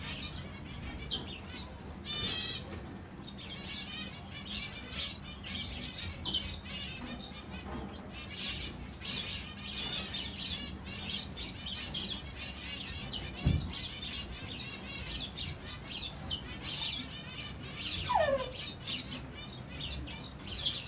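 A flock of mixed finches in an aviary chirping constantly, many small overlapping calls. A single thump about two-thirds of the way through, and one falling call near the end.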